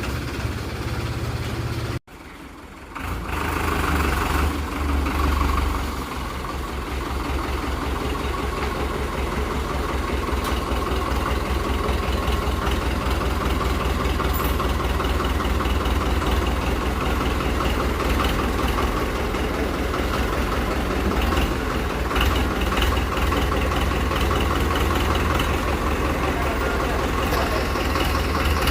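Powertrac tractor's diesel engine running: the sound cuts out briefly about two seconds in, the engine is louder for a few seconds after, and then it settles into a steady idle with an even beat.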